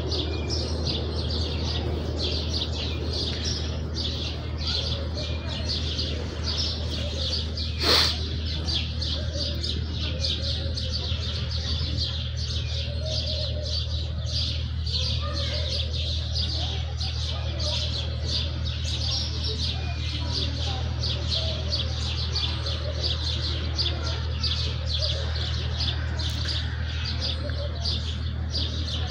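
A flock of house sparrows chirping in a dense, continuous chorus of rapid high chirps, with one sharp click about eight seconds in.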